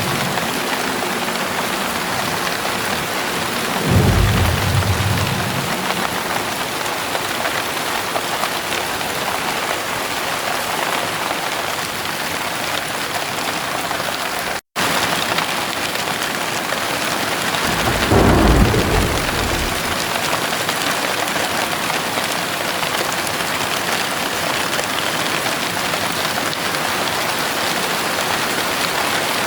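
Heavy rain pouring steadily, with two short low thunder rumbles, about four seconds in and again about fourteen seconds later.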